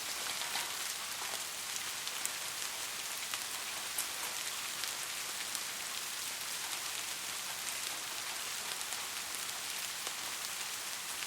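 Steady rain falling, an even hiss with a dense patter of individual drops ticking through it.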